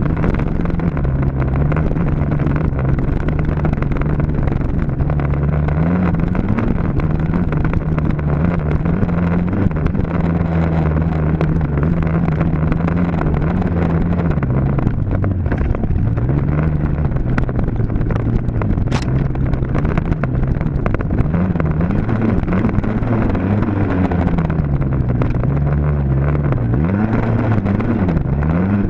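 Dirt bike engine running hard at mostly steady revs, with the revs dropping and climbing back about halfway through and rising and falling several times near the end.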